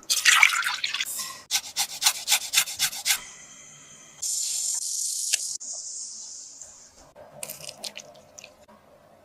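Kitchen handling sounds: a rustle and a quick run of sharp clicks, then about four seconds in a steady hiss like running water that fades out after about three seconds, and a brief crinkle near the end.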